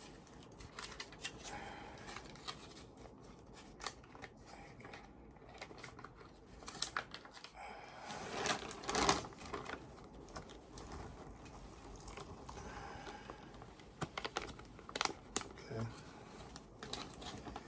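MRE plastic pouches and flameless heater bag being handled: crinkling and rustling with scattered small clicks, busiest about halfway through.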